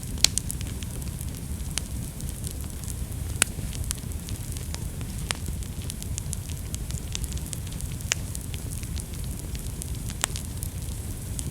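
Wood fire burning: a steady low rumble of flames with scattered sharp crackles and pops, a few louder snaps among them.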